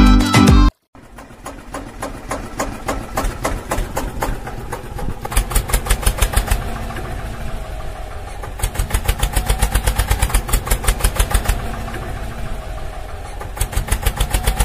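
Small motor running on the DIY mini tractor tree-cutter machine, with a rapid regular knocking of about seven knocks a second that comes and goes in louder spells.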